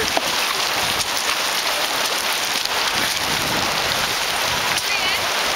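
Steady rushing and hissing of white water running through a river rapid.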